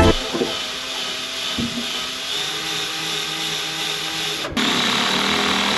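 A small electric motor running steadily with a whirring whine. It breaks off briefly about four and a half seconds in and resumes a little louder.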